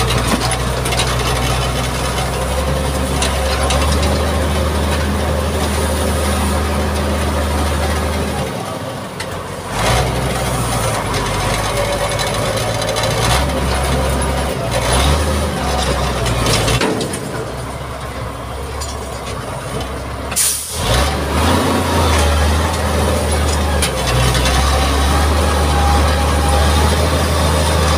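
Mitsubishi MG330 motor grader's diesel engine running while it works, its low drone shifting in pitch and strength several times. A brief sharp noise cuts in about twenty seconds in.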